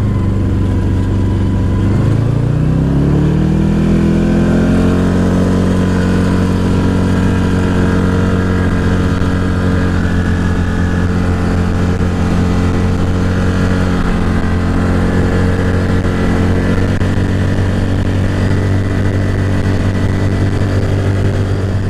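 Off-road vehicle engine under way. About two seconds in, its pitch rises for a couple of seconds as it accelerates, then it holds a steady, even drone at cruising speed.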